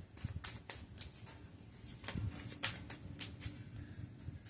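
Cards being shuffled and handled: a run of irregular soft flicks and clicks.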